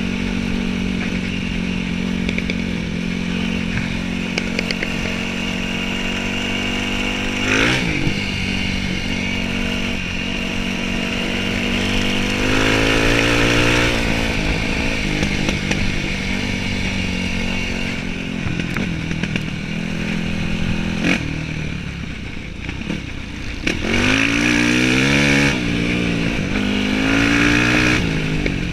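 Yamaha WR dirt bike's engine running at mostly steady revs, revved up and back down about a quarter of the way in, again near the middle, and several times in quick succession near the end.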